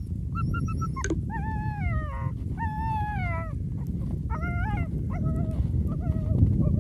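Sled dogs whining and yipping: a few short high yips, then two long whines falling in pitch, then a run of short yelps, over a steady low rushing noise.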